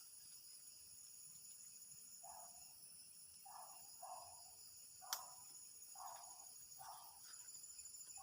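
Crickets and other insects trilling steadily at a high pitch, with about six short, lower calls from another animal from about two seconds in, and one sharp click about five seconds in.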